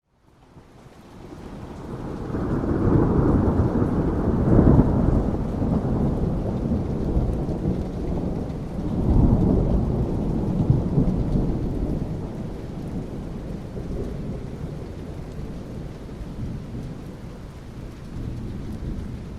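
Rolling thunder over steady rain. The rumble builds up out of near silence, swells twice (a few seconds in and again about nine seconds in), then eases into a lower, lingering roll under the rain.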